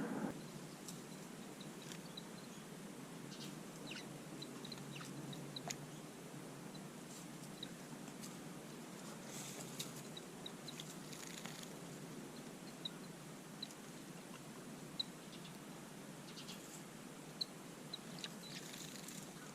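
Small garden birds calling with short, high single chirps scattered throughout, over a faint low background hum.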